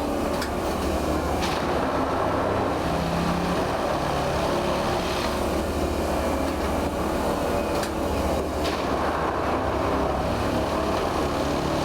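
Steady low mechanical rumble of depot machinery or rail equipment running, with a few faint clicks.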